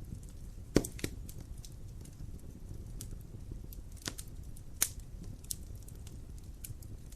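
Wood fire in a fireplace crackling: scattered sharp pops over a low, steady rumble of the flames, the loudest pop about a second in.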